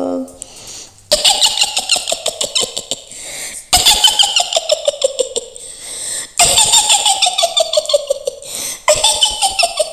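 Mak Lampir's witch cackle: a woman's high, rapid laugh in four long runs, each falling in pitch from start to finish.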